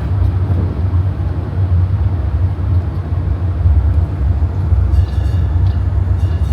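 Steady low engine drone and rumble of a small tourist road train on the move, heard from aboard its carriage. A faint high squeak comes in briefly about five seconds in.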